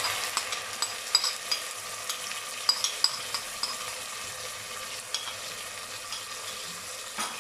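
Onions, ginger-garlic paste and green chillies sizzling in hot oil in a pressure cooker as they are stirred. A steady hiss runs under scattered small pops and a few louder clicks.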